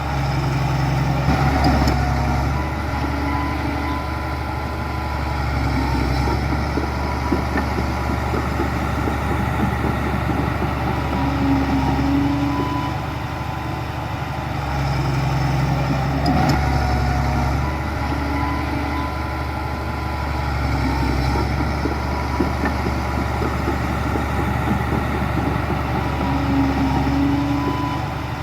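Heavy diesel earthmoving machinery running steadily, its engine swelling and easing under load every few seconds, with a faint steady whine and occasional light clanks.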